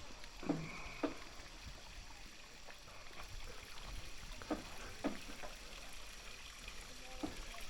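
Footsteps on stone terrace steps: a handful of irregular steps, some in quick pairs, over a faint steady hiss.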